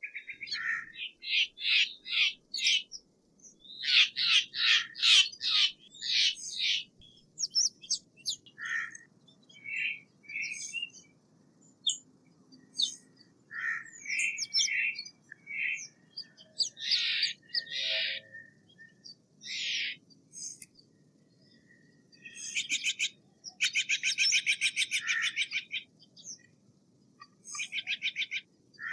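Steller's jay calling: runs of short, harsh repeated notes, broken by pauses, with a longer fast rattling series about three-quarters of the way through.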